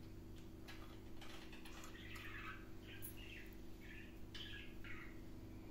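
Faint bird chirping: a string of short separate calls, about ten, over a steady low hum.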